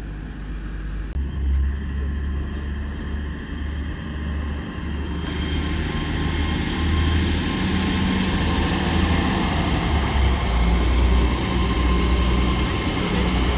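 A train coming into the station: a low engine rumble and rail noise grow steadily louder, with a thin high whine that falls in pitch about nine to ten seconds in.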